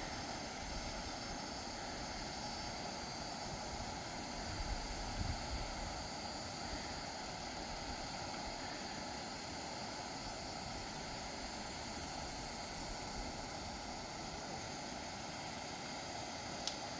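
A steady rushing noise with no clear pitch, broken by a few low thumps about five seconds in and a single sharp click near the end.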